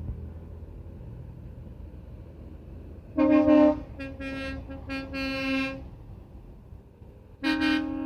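Truck horns sounding: a loud blast about three seconds in, a run of shorter blasts after it, and another blast near the end, over a low rumble of engines.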